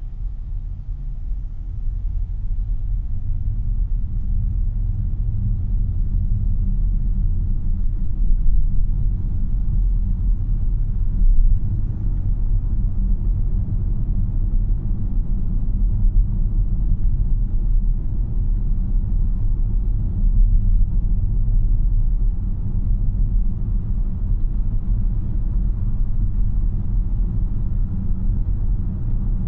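Steady low tyre and road rumble heard inside the cabin of a 2026 Tesla Model Y AWD on the move, building over the first few seconds and then holding even.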